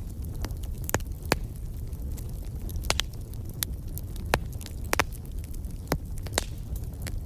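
Wood fire crackling in a fireplace: irregular sharp pops and snaps, about a dozen scattered through, over a steady low rumble.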